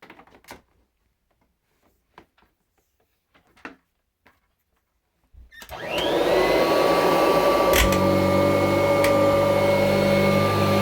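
A 1984 Kirby Heritage 2 upright vacuum cleaner, not run for a long while, is switched on about halfway through after a few faint clicks. Its motor spins up with a rising whine and then runs steadily and loud, with a sharp click shortly after it starts.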